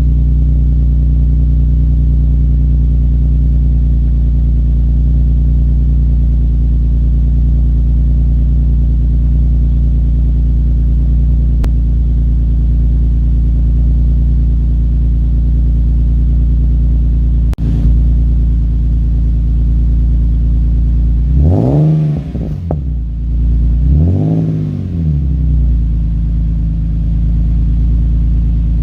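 Car engine idling steadily through a Rev9 aftermarket cat-back exhaust with a deep, even drone, then blipped twice near the end, each rev rising and falling back quickly to idle.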